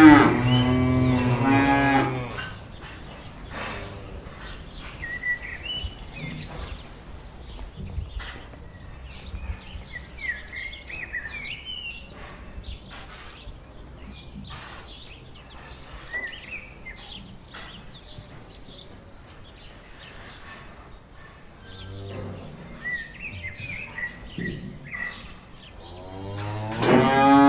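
A cow lowing loudly for about two seconds, then small birds chirping in short, rising phrases, before a cow lows again near the end.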